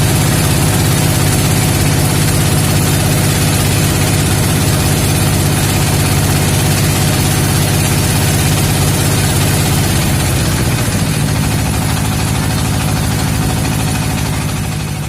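A motor engine running steadily; its note shifts about two-thirds of the way through, and the sound fades out near the end.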